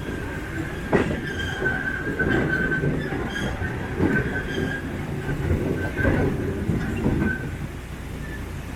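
Park ride-on train rolling along its track. The wheels squeal on and off in a high tone over a steady rumble, with sharp clacks as the wheels cross rail joints about a second in and again near four, six and seven seconds.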